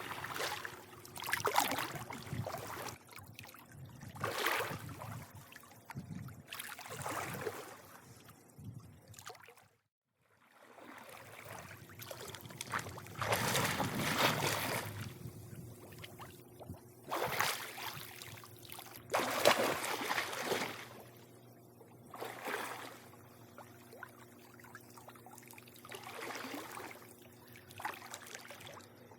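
Swimming-pool water lapping and sloshing against the edge in irregular swells every second or two, over a faint steady hum. The sound cuts out completely for about half a second near ten seconds in.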